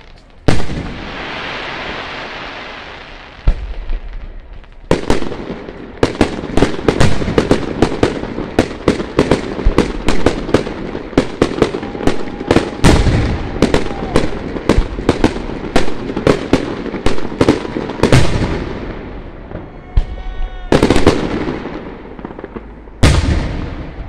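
Aerial fireworks shells going off. A loud bang comes about half a second in, then a dense rapid volley of bangs and crackling bursts, several a second, for over ten seconds, followed by a few more single booms near the end.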